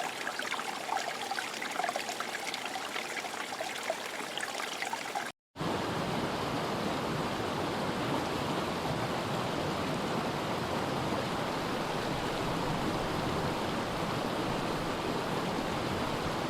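Running water: a trickling stream with many small splashes and drips for about five seconds, then, after a brief silent cut, the steady rush of a larger stream or small waterfall.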